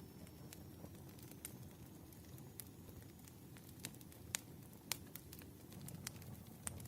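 Wood fire crackling: irregular sharp pops and snaps, a few louder ones about four and five seconds in, over a low rumbling hiss of burning logs.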